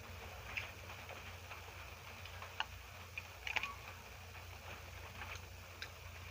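Eating sounds: a handful of small, sharp wet clicks and smacks from chewing and handling food, the loudest a short cluster in the middle, over a low steady hum.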